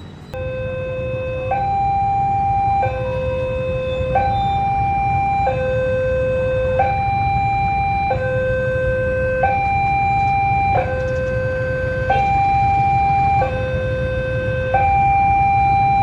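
Railway level-crossing warning alarm: an electronic two-tone signal switching steadily between a low and a high tone about every second and a half, starting suddenly just after the start, over a low rumble.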